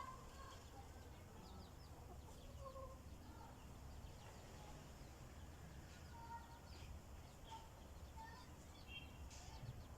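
Chickens clucking faintly with short scattered calls, over a low steady rumble.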